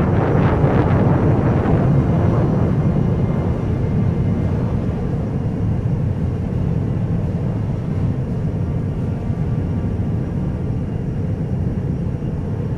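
Jet aircraft flyover: a loud jet roar whose higher part fades after about two seconds, leaving a steady low rumble.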